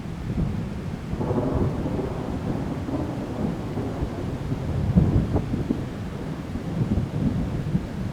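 Thunder rumbling in a monsoon thunderstorm, swelling about a second in and again around five seconds, over steady rain.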